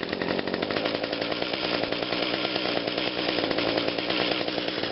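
Small two-stroke hedge trimmer engine catching on the starter pull with the choke set to run, then running steadily with a fast, even rattle. This is a cold engine that fired briefly on choke a moment before.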